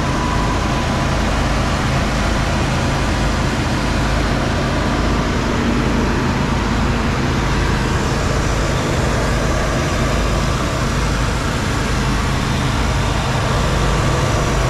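Land Rover Discovery engine idling steadily and very smoothly, its idle settled after a cold start.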